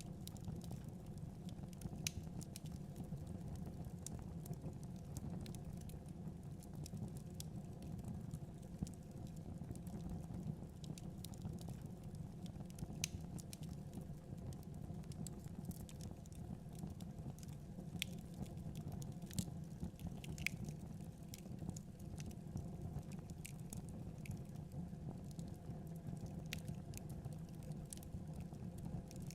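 Wood fire burning in a fireplace: a steady low rush of flames with sharp crackles and pops at irregular intervals.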